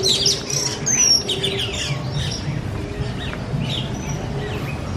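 Several birds in an aviary chirping and calling, many quick overlapping downward chirps, busiest in the first couple of seconds and thinning out after.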